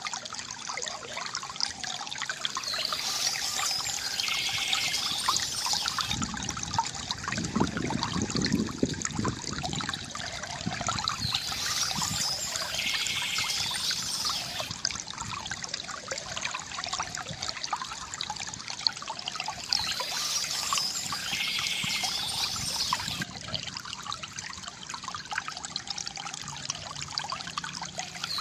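Water trickling and gurgling steadily from a bamboo fountain, briefly fuller and deeper about eight seconds in. Birds chirp in short spells that come back about every eight seconds.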